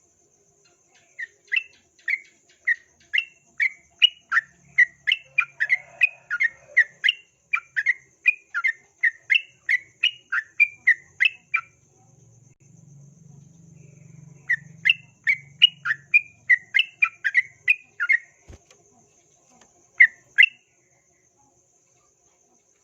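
Yellow-vented bulbul (trucukan) calling in rapid runs of short, sharp chirping notes that alternate between two pitches. A long run is followed by a pause, then a shorter run, and then two last notes near the end.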